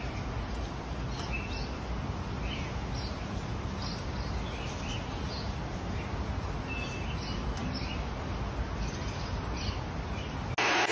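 Small birds chirping, a dozen or so short high chirps scattered over a steady background hiss.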